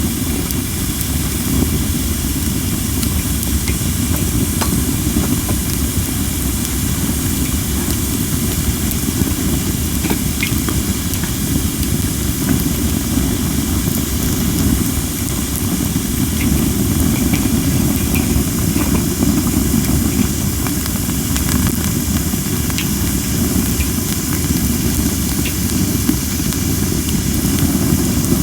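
Cherry-wood campfire hissing steadily as steam escapes from under-dried logs, with a few faint crackles, over a heavy rumble of strong wind on the microphone.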